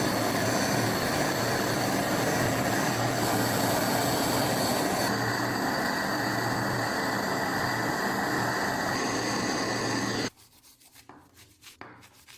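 A power tool grinding or sanding rusted steel runs steadily with a rough, hissing noise, then cuts off suddenly about ten seconds in, leaving only faint light scrapes.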